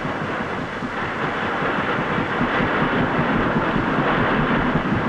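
Steady rumbling noise of a boat under way, with no clear pitch or rhythm.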